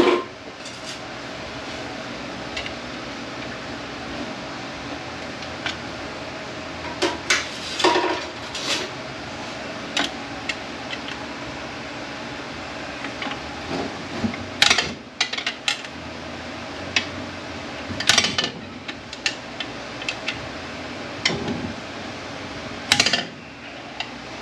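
Hand tools clinking, tapping and scraping on the steel parts of a Mercedes 722.9 automatic transmission as a stubborn snap ring is worked loose: irregular sharp metal clicks and clanks, a few louder ones, over a steady low hum.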